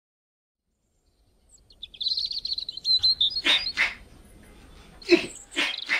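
Birds chirping: a quick run of high twittering starts about two seconds in, followed by several short, sharp calls.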